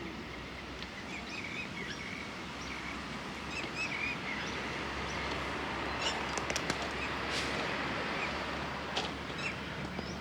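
Small birds chirping repeatedly over steady outdoor background noise and a low hum, with a few sharp clicks in the second half.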